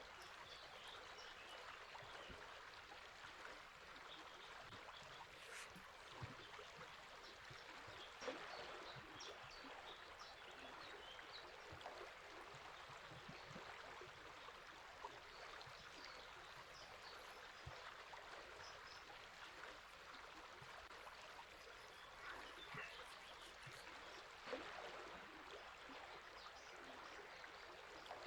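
Faint river water running steadily, with short, faint bird chirps scattered throughout.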